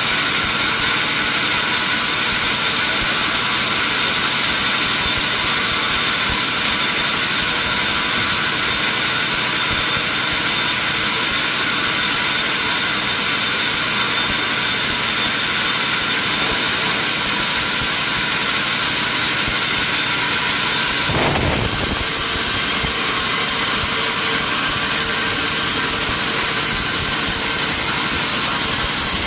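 Sawmill machinery running steadily with a loud mechanical whine. Its sound shifts suddenly about two-thirds of the way through.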